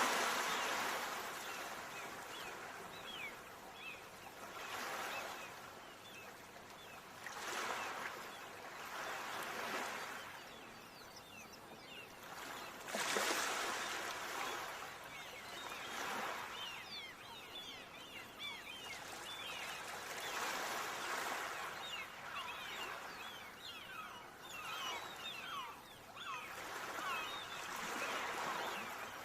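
Ocean waves washing in and drawing back, the surf swelling and fading every few seconds with a fine fizzing hiss as the water runs back.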